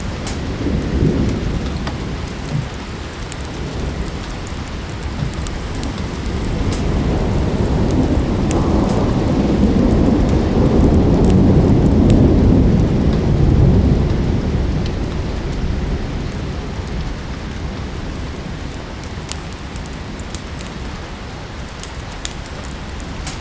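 Steady rain with a long roll of thunder that swells about a third of the way in and dies away a few seconds later. Scattered small crackles from a fireplace run over the rain.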